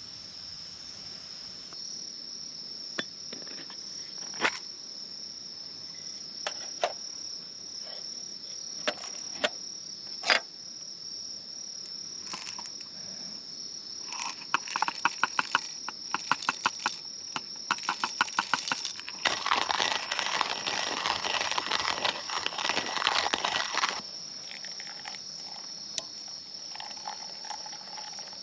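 An insect's high, steady trill, with scattered sharp clicks over it; about halfway through, rapid clicking starts, then gives way to a louder noisy rush that stops abruptly a few seconds before the end.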